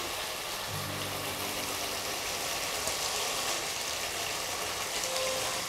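Oil and spiced gravy sizzling and bubbling steadily in a frying pan as pieces of fried chicken are added to it.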